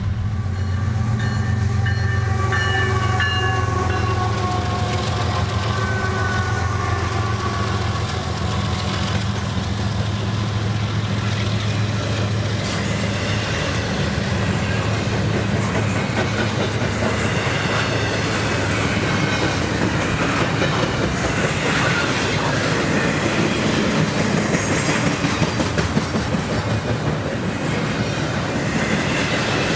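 Train passing close by: a diesel locomotive's engine drone and horn, the horn's pitch falling slightly as it goes by during the first several seconds, then the steady rumble and clickety-clack of cars rolling past on the rails.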